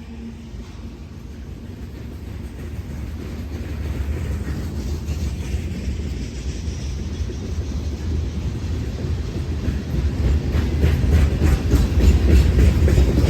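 Freight train drawing closer, a low rumble growing steadily louder, with a run of wheel clicks over the rail joints in the last few seconds.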